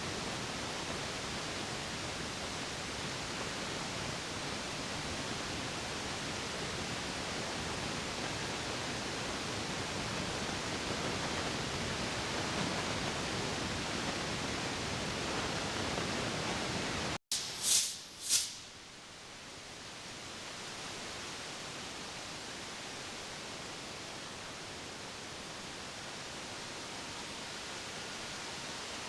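Ship's engine-room noise from a running MAN B&W marine diesel main engine: a steady, even roar like loud hiss with no distinct beat. About two-thirds through, the sound cuts out for an instant, two short sharp hissing bursts follow, and the roar comes back a little quieter.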